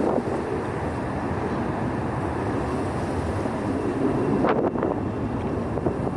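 Strong gusty wind buffeting the microphone, a steady rough rumble with a harder gust about four and a half seconds in.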